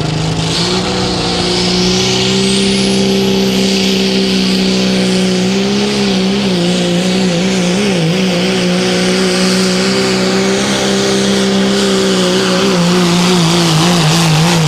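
Turbocharged diesel pickup pulling a weight sled, its engine held at high revs under full load with a high turbo whine that climbs in pitch over the first few seconds. The engine note wavers briefly in the middle of the pull.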